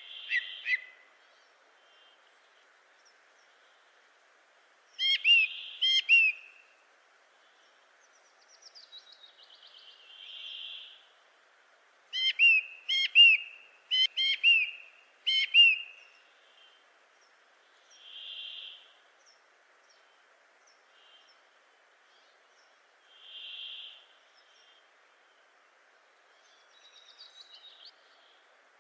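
Wild birds calling: loud, sharp whistled notes that slur downward, in short clusters a few seconds apart, with softer rounded single notes roughly every five seconds between them and a faint fast trill. A steady faint hiss runs underneath.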